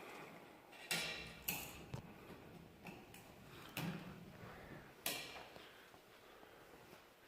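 A few sharp clicks and knocks, about four spread over several seconds, from tools and parts being handled during work on a truck.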